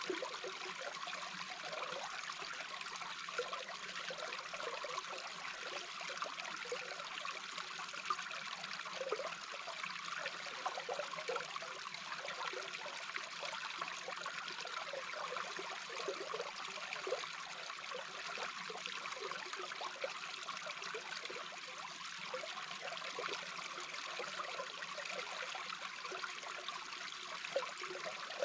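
A small brook's running water heard from underwater: a steady hiss of flowing water with frequent small bubbling pops.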